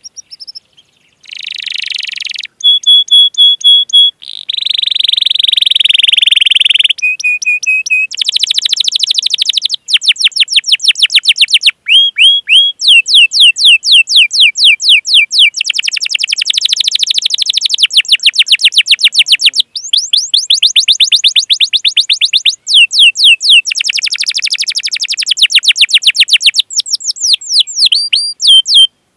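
Canary singing a long song of rolls: fast runs of rapidly repeated falling chirps, broken by a few steady whistled notes and short pauses between phrases.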